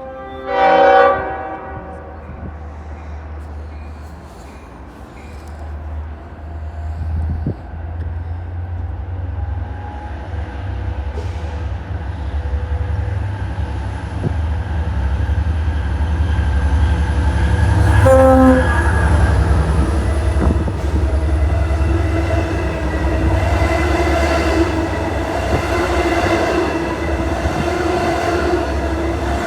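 Train horn sounds a short blast, then a train rumbles closer and runs past with a steadily louder rumble and wheel clatter. It gives a second brief horn toot about 18 seconds in.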